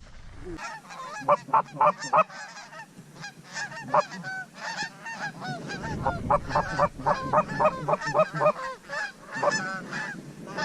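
A flock of Canada geese honking, many short calls overlapping in quick succession.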